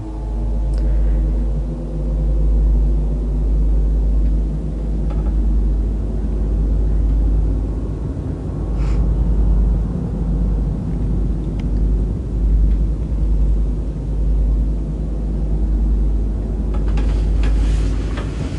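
A loud, steady, very deep rumble, with a few faint clicks over it and a patch of rattling noise near the end.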